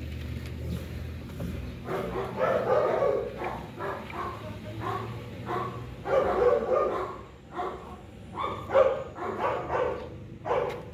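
A dog barking repeatedly in short runs of barks, starting about two seconds in, over a steady low hum.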